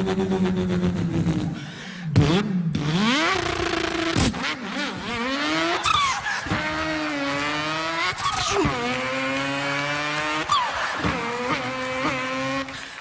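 A man imitating a car engine with his voice: the pitch climbs as if the engine is revving up, then drops sharply as if shifting gear, again and again.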